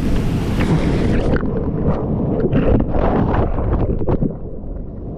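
Heavy ocean surf churning and buffeting right against the camera's microphone as a swimmer is tossed by big waves. It is a loud low rumble of water, and about a second and a half in it turns dull and muffled as the higher sounds drop away.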